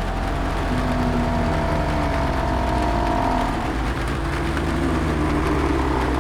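Zombie moans: drawn-out, slowly wavering groaning voices over a steady bed of rain noise and a low rumble.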